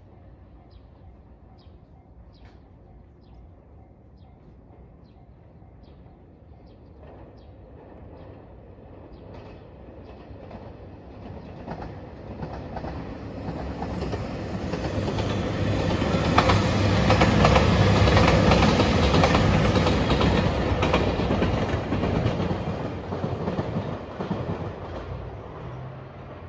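Yellow Anpanman-liveried JR Shikoku 2700 series diesel express train approaching and passing: a rumble of engines and wheels that swells, is loudest about two-thirds of the way through with wheels clacking over rail joints, then fades. Faint regular ticks, about two a second, sound over the first ten seconds or so.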